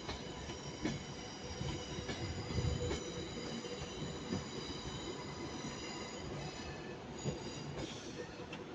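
Electric passenger train moving slowly at a station platform: a steady rumble under several high, steady whining tones, with a few light knocks.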